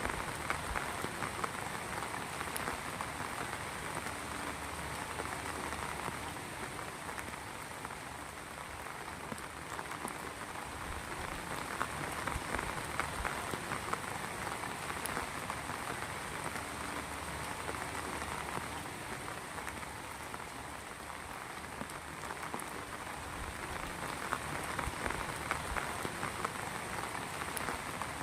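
Heavy rain falling steadily as a dense patter of drops, swelling and easing slightly in places.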